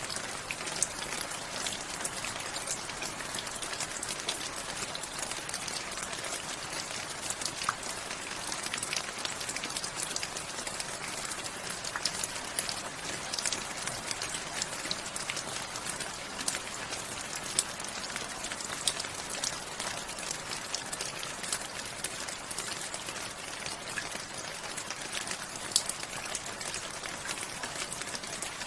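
Steady rain with many individual drops ticking sharply against a hard surface.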